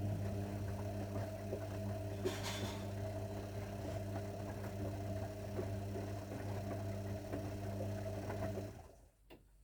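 Zanussi washing machine humming steadily, with a brief burst of hiss a little over two seconds in. The hum cuts off sharply near the end and is followed by a single click.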